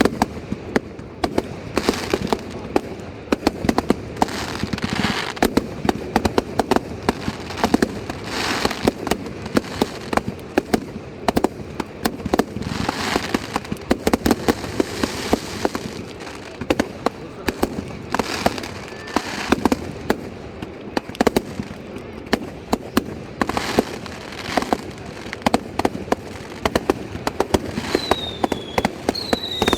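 Fireworks display: a continuous barrage of sharp bangs and crackling bursts, with a few short falling whistles near the end.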